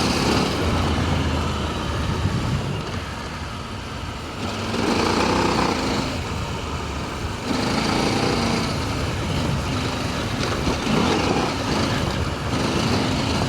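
Adventure motorcycle engine running on a tight dirt trail, revs rising and falling with the throttle. The engine eases off about three seconds in and picks up again at about four and a half seconds.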